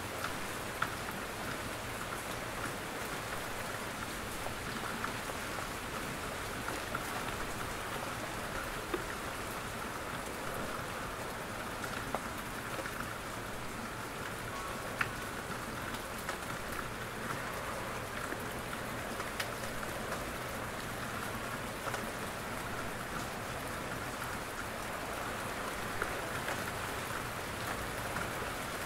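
Steady rain falling in a forest, with a constant hiss and scattered single drops striking close by.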